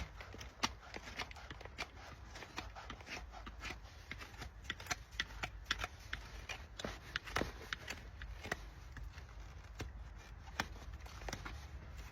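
Farrier's hand tools working on a Shire horse's hoof: an uneven run of short, sharp clicks and scrapes, several a second, as the hoof horn is cut and pared.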